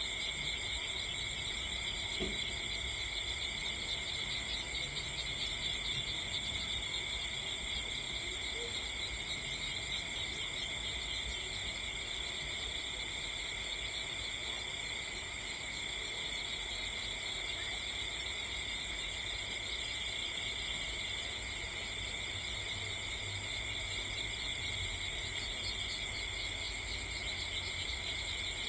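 Steady chorus of insects chirring on several high pitches without a break, over a low rumble.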